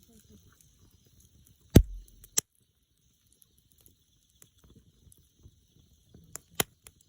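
Wood campfire crackling, with a few sharp pops: the loudest about two seconds in, then a cluster of three or four near the end, over a faint, steady high hiss.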